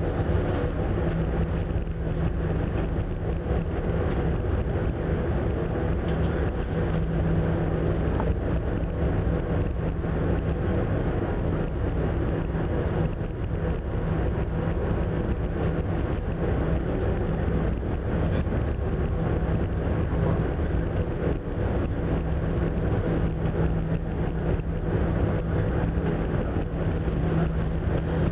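Steady drone of a large passenger ferry under way: a constant low engine hum with a steady tone, under an even rushing noise.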